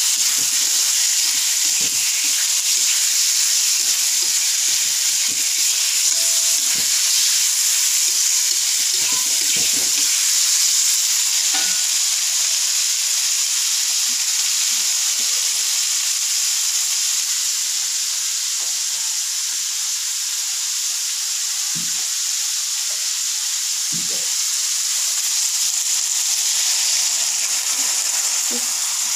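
Tofu and green beans sizzling in hot oil in a wok, a steady loud hiss, with scattered light knocks of a metal spatula.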